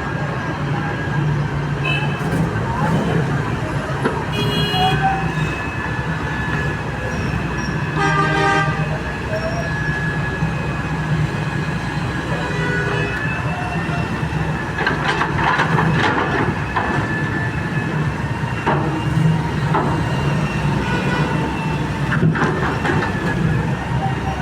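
Heavy excavator's diesel engine running steadily, with two short vehicle horn toots about five and eight seconds in.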